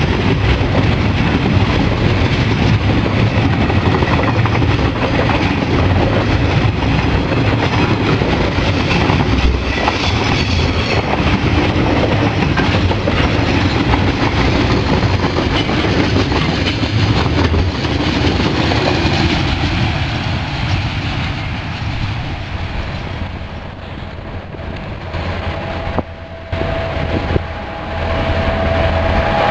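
Loaded log wagons of a freight train rolling past close by, their wheels clattering over the rail joints in a steady clickety-clack. It grows quieter in the last third, with abrupt jumps in level near the end.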